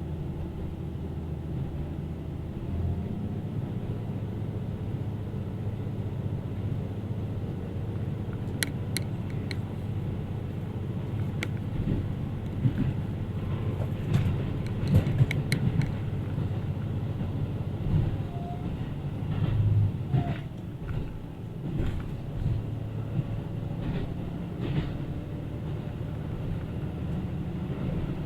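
Local diesel train running along the line: a steady low engine drone and wheel rumble, with a cluster of sharp clicks and knocks between about 8 and 16 seconds in.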